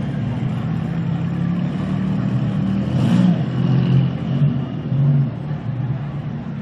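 Several demolition derby cars' engines running at low speed, revving up a little now and then.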